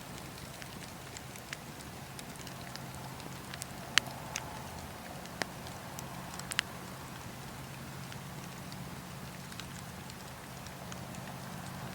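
Wood fire burning in a fireplace, with irregular sharp crackles and pops over a steady low rumble. The loudest pop comes about four seconds in, and a quick cluster follows a couple of seconds later.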